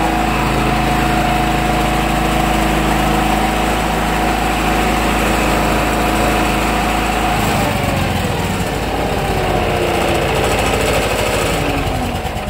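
1973 Ingersoll garden tractor's engine running steadily at speed. About halfway through it drops to a slower, lumpier beat, with a falling whine as it winds down.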